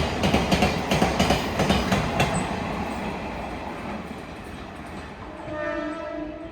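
Freight train passing, its wheels clacking over rail joints, with the rumble fading away over the first few seconds. Near the end the train's horn sounds once for about a second.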